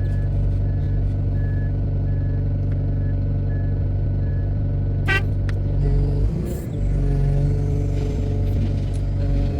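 A heavy diesel engine, most likely the wheel loader's, runs steadily with a back-up alarm beeping about twice a second for the first three or four seconds. About five seconds in there is a brief sharp ringing sound, and shortly after that the engine note dips and wavers for a moment.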